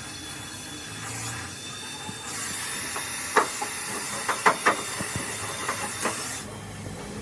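A loud steady hiss, like compressed air blowing, starts about two seconds in and cuts off suddenly near the end, with several sharp clicks and taps over it.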